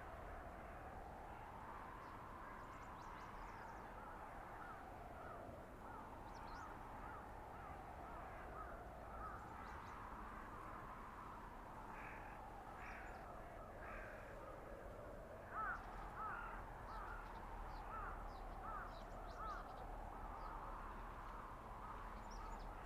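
Blizzard wind howling through a winter forest, its whistle slowly rising and falling in pitch, with short bird calls repeating over it, most of them in the second half.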